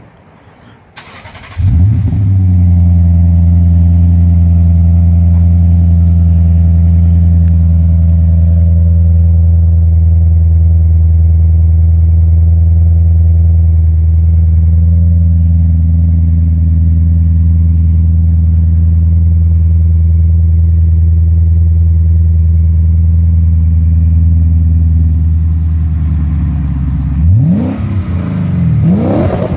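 Lexus RC F's 5.0-litre V8 with an aftermarket cat-back exhaust cold-started: it cranks and fires about two seconds in, then idles steadily. Near the end it is revved a couple of times.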